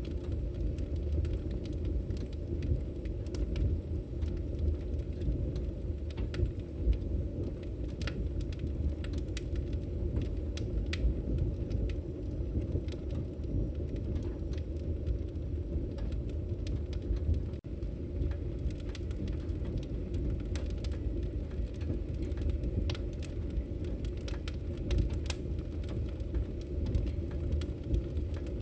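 Wood fire crackling in a fireplace: a steady low rumble of the flames with scattered sharp pops and snaps. There is a momentary drop in the sound a little past halfway.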